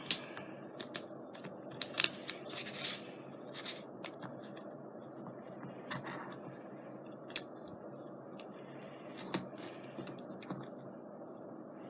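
Small irregular clicks, taps and short scraping rustles of craft supplies being handled on a work surface, over a steady fan hum.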